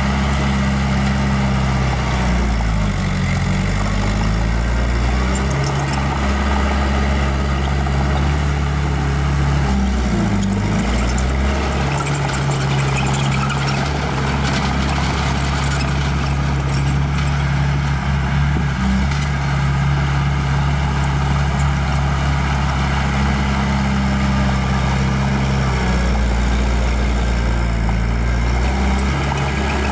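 Small bulldozer's diesel engine running hard as it pushes rock, its pitch dipping and recovering briefly a few times as the load comes on.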